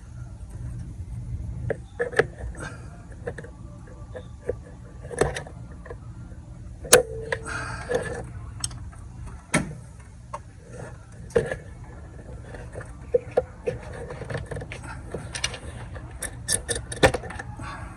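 Scattered clicks, taps and clinks of hands and tools working at hose clamps and a plastic clip in an engine bay, with one sharper metallic clink that rings briefly about seven seconds in, over a steady low hum.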